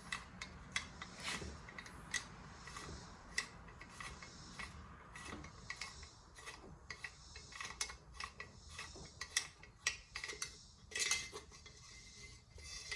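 Scattered light metallic clicks and clinks of a chainsaw and its parts being handled, a dozen or more small knocks spread irregularly through the stretch.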